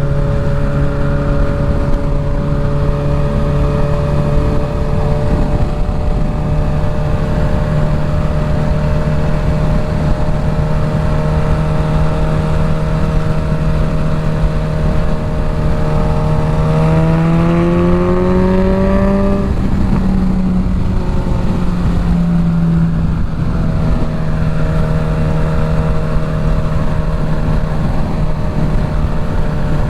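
Suzuki GSX-S1000 inline-four with a full Dominator exhaust running at steady cruising revs. It is heard through a helmet-mounted mic under heavy wind noise. About two-thirds of the way through the revs climb as it accelerates, then drop sharply and settle back to a steady drone.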